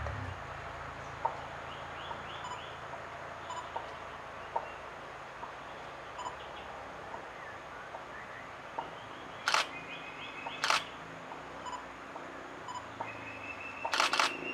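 A coppersmith barbet calls a steady series of short, low, pitched 'tuk' notes, a little more than one a second, while other small birds chirp faintly. A camera shutter clicks loudly twice around the middle and fires a quick burst near the end.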